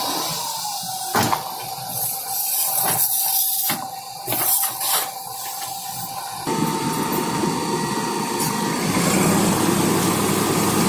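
Heavy machinery engine running with a steady whine, broken by several short bursts of hissing in the first half. About six and a half seconds in, the sound changes abruptly to a fuller, steady engine noise.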